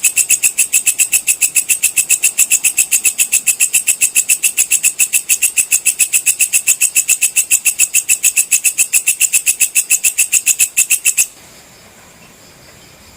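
Walang kecek (belalang kecek), a singing bush-cricket, calling in a fast, even train of shrill chirps that stops abruptly about eleven seconds in.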